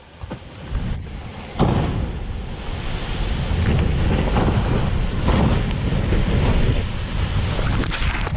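Loud rushing noise of wind and water, with gusts buffeting the microphone and a sharp thump about one and a half seconds in, followed by a few softer knocks.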